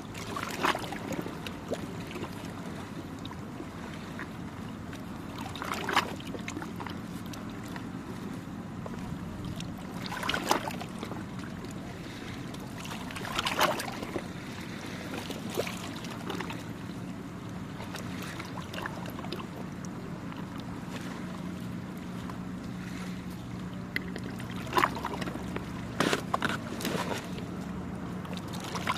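Small waves lapping and splashing on the shore every few seconds over a steady low engine hum.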